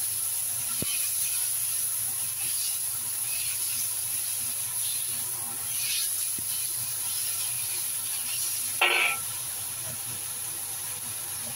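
Beef slices and garlic sizzling in oil in a hot wok, with a silicone spatula scraping and turning them every so often. A short louder clatter about nine seconds in.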